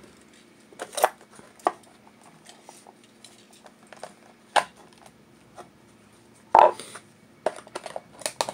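Small toy car and its plastic and cardboard packaging being handled: scattered clicks, taps and rustles, the loudest knock about six and a half seconds in and a quick run of clicks near the end.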